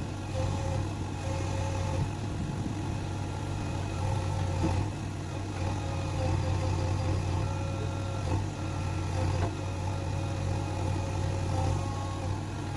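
Backhoe loader's diesel engine running steadily at an even speed.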